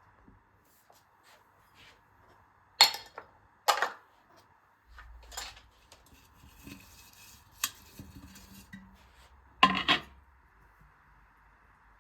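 Dishes and cutlery being handled: several sharp clinks and knocks of crockery and metal, with softer rattling and handling in between.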